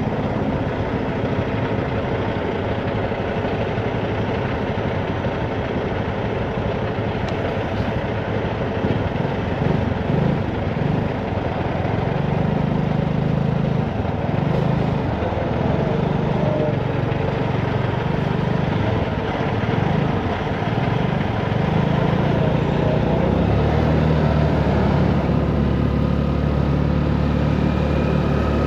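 Honda Navi's small single-cylinder engine running on the move, its note shifting up and down over road and traffic noise. About two-thirds of the way through it settles into a steadier low hum.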